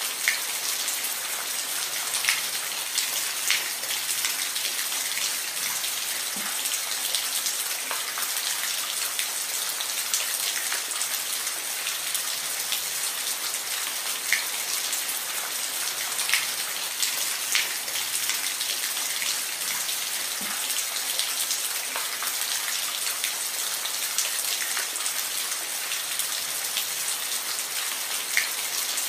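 Steady rain falling, a constant hiss with scattered louder drops ticking on a surface.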